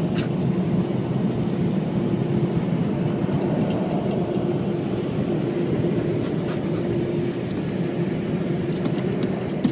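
Automatic car wash air dryer blowers running, a steady rushing blast with a constant hum, easing off slightly near the end as the dryer shuts down.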